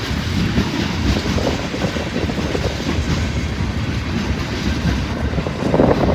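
Freight train cars rolling past close by, wheels running on the rails with a steady rumble, while wind buffets the microphone.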